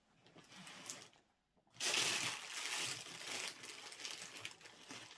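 Rummaging through small plastic bags and containers of diamond-painting drills: a dense rustling, rattling clatter that starts about two seconds in, after a near-silent pause.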